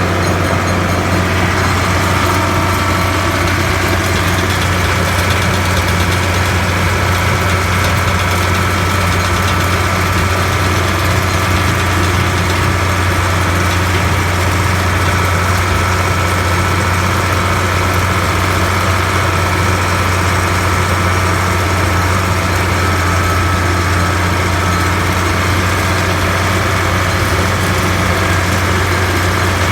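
The rebuilt engine of a Bobcat 1155 loader running steadily at idle, fully warm after a couple of hours of work.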